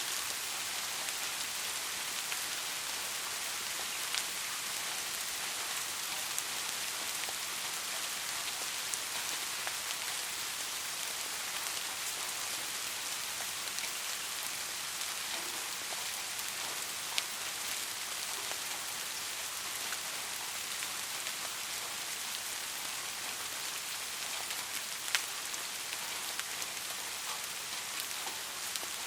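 Steady rainfall: a constant hiss of rain with now and then a single louder drop striking close by.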